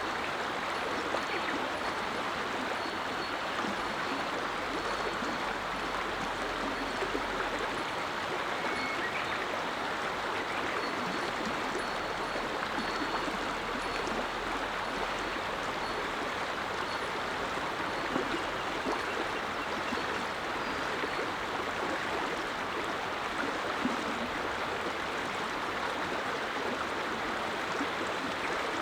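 Clear mountain river flowing over stones, a steady rushing murmur with faint high chirps now and then.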